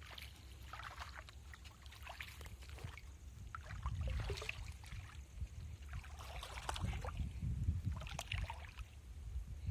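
Water splashing and sloshing in several short, irregular bursts over a steady low rumble.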